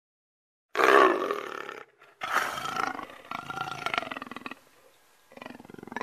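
Big cat giving a series of rough, rasping roar-like calls, four in all. They start about a second in, the first one the loudest, each lasting about a second.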